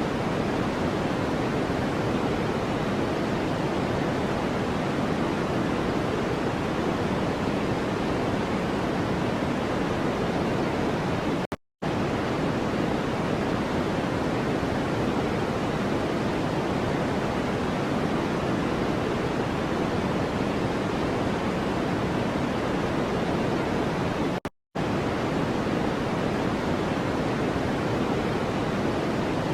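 Steady pink-type noise, a deep even rush with its weight in the low-mids, broken by two very short dropouts to silence about 12 and 25 seconds in, evenly spaced like the seams of a repeating loop.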